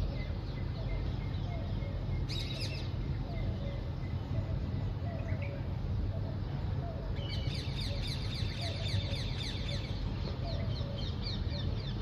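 Small birds chirping, with a short burst of chirps about two seconds in and a fast run of quick, falling chirps from about seven seconds in. A steady low rumble runs underneath.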